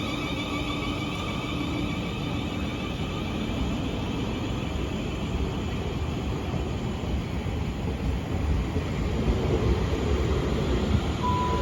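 Passenger train running on the railway, a steady rumble and hiss, with the low rumble growing louder over the last few seconds.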